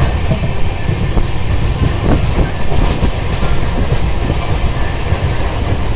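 Passenger train running along the track: a steady, loud rumble with the clickety-clack of wheels going over rail joints.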